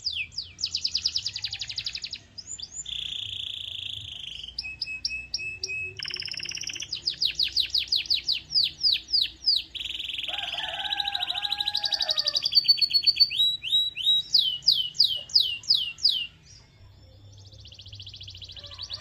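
Domestic canary singing: fast runs of repeated notes and trills, some buzzy and some as quick falling sweeps, changing from one phrase to the next, with a brief pause near the end.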